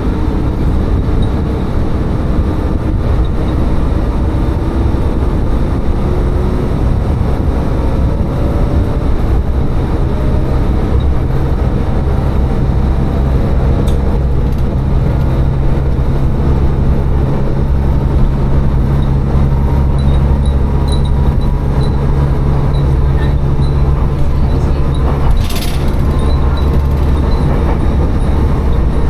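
Tsugaru Railway diesel railcar running between stations: a steady engine drone with wheel and rail noise, heavier in the low end from about halfway. A brief high hiss comes near the end.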